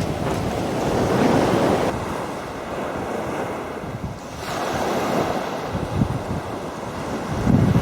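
Sea waves washing onto the beach, surging and easing, with wind buffeting the microphone.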